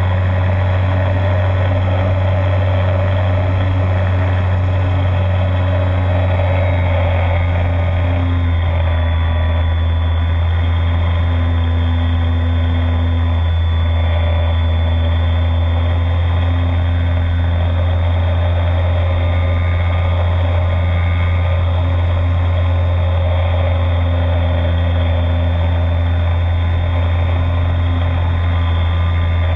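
Electric motor and propeller of a radio-controlled model DHC-2 Beaver in flight, heard from inside the fuselage: a loud, steady drone with small shifts in pitch as the throttle changes.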